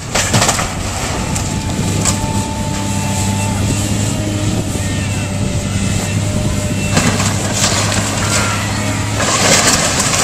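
Heavy diesel demolition machinery running steadily while a building is torn down, with crunching and crashing of breaking debris, the loudest crashes about seven seconds in and near the end.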